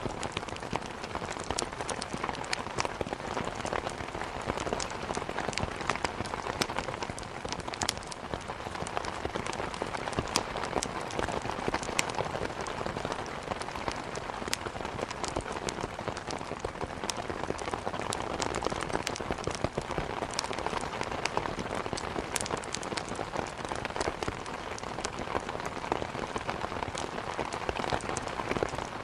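Steady rain hitting a window, with frequent small sharp crackles of a wood fire scattered through it.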